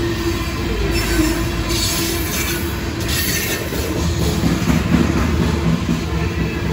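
Loaded coal hopper cars of a CSX freight train rolling past: a continuous rumble of steel wheels on the rails, with brighter, higher-pitched wheel noise flaring about two to three seconds in.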